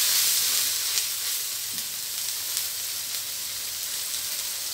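Chicken pieces frying with curry paste in oil in a steel wok: a steady sizzle, a little louder in the first second while a spatula stirs them.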